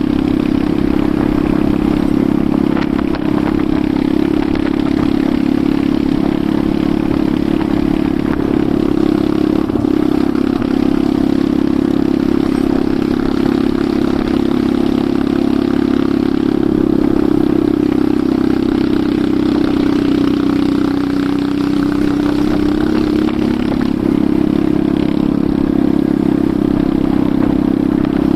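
Enduro motorcycle engine running steadily as the bike rides along, its note rising briefly about three-quarters of the way through.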